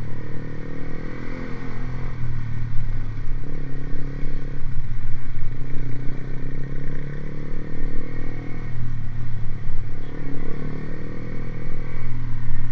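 Motorcycle with an aftermarket racing exhaust running at a fairly steady, low engine speed, its exhaust note shifting slightly every second or two.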